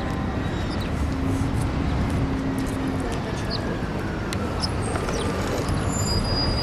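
Steady city traffic rumble in an open urban square, a constant low background of passing road vehicles.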